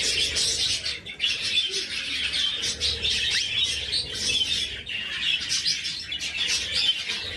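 Many small birds chirping at once, a dense, unbroken twittering.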